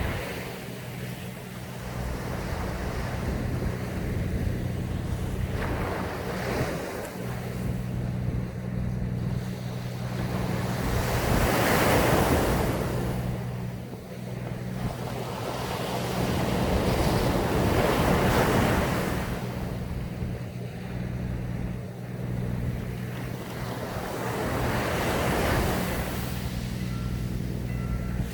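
Sea waves breaking on a sandy beach, a continuous wash of surf that swells four times, about every six seconds, as each wave comes in. A steady low hum runs underneath.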